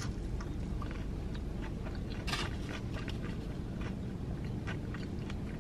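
A person chewing crisp fried food with the mouth closed: scattered short crunches, the loudest about two and a half seconds in, over a steady low background hum.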